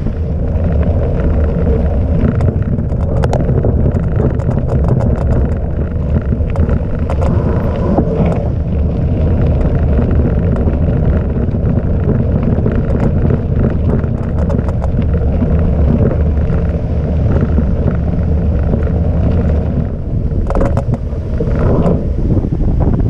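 Steady low rumble of mountain-bike tyres rolling over a gravel track, mixed with wind buffeting the microphone, with scattered rattling clicks from the bike over the stones.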